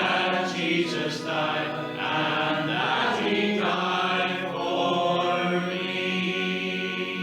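Church congregation singing a hymn together, the closing line ending on a long held note.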